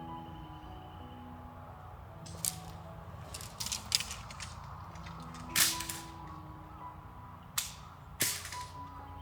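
Several sharp, irregular cracks, the loudest just past the middle and a pair near the end, over soft background music with mallet-like notes.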